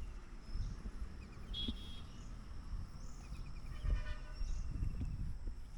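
Birds chirping outdoors: a short high call repeating every second or two, with a few brief trills, over a low steady rumble.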